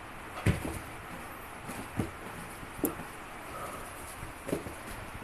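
A handful of soft, separate thumps and knocks, a few seconds apart, as a kitten plays and pounces, over a steady hiss.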